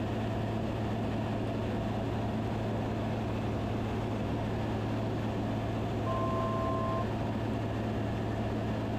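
Steady drone of a Van's RV-10's piston engine and airflow in the cockpit, heard through the intercom as a constant low hum. About six seconds in, a brief steady electronic tone sounds for about a second.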